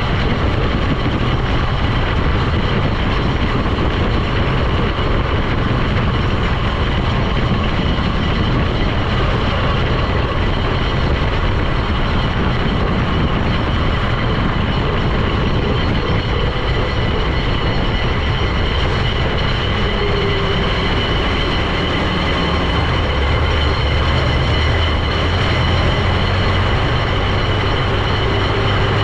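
A vehicle driving at a steady speed: constant loud engine and road noise with a steady high whine over it.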